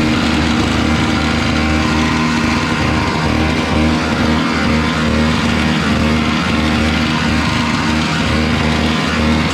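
Small gas snowblower engine running steadily at an even speed.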